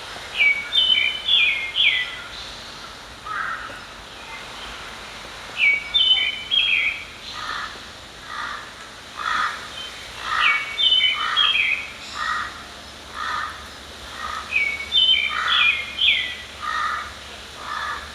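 Wild songbirds singing: one bird repeats a short phrase of quick sliding notes about every four to five seconds, while another gives a steady series of lower notes from partway through. A faint steady hiss lies underneath.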